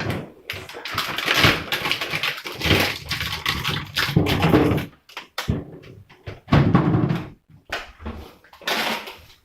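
Food packages and containers being handled and stacked into a fridge: irregular rustling of plastic bags with clunks and knocks, broken by short pauses.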